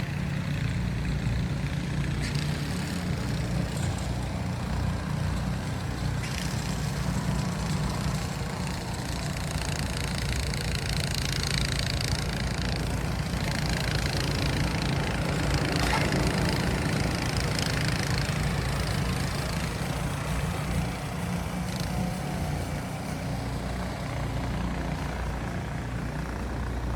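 City ambience: a steady low rumble of traffic, with a hiss that swells and fades around the middle.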